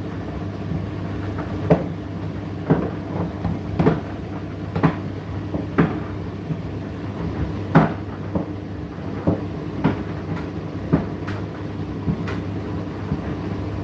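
Indesit IDC8T3 condenser tumble dryer running: a steady motor and fan hum with irregular knocks, about one a second, as the load tumbles in the drum.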